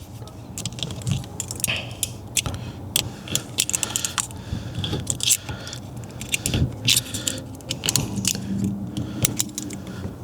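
Irregular metallic clicking, clinking and scraping as a steering wheel lock plate compressor is worked on a steering column, pressing the lock plate down against its spring to expose the retaining ring groove.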